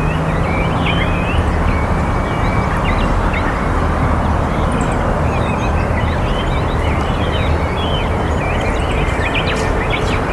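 Many short bird chirps and squeaks, over and over, over a loud steady rushing background noise.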